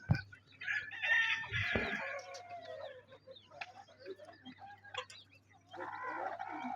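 Hens clucking in two calls, a longer one about a second in and another near the end, with small pecking and scratching clicks between. A short thump at the very start.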